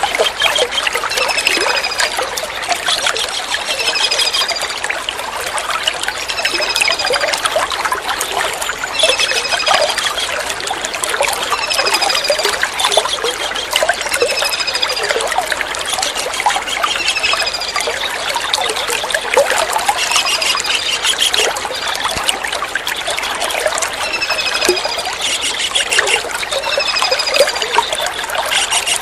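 Running water trickling and splashing steadily. Over it a kingfisher repeats short, high, slightly falling call notes every second or two.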